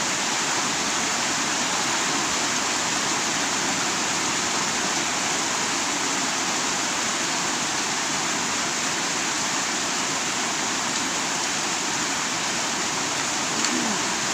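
Heavy rain falling steadily without wind, an even hiss.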